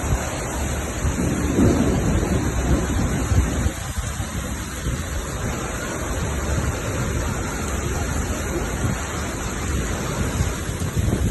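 Heavy rain pouring steadily in a thunderstorm, with a deep rumble of thunder underneath.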